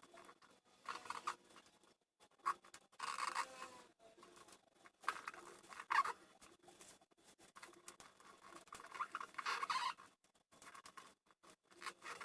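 Sheet of paper rustling and crinkling as it is folded and creased by hand, in several short bursts with quiet pauses between.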